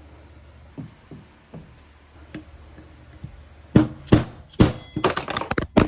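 Hard knocks and clanks of metal tools and parts being handled during a brake caliper strip-down: a few soft taps at first, then a quick run of loud, sharp knocks over the last two seconds.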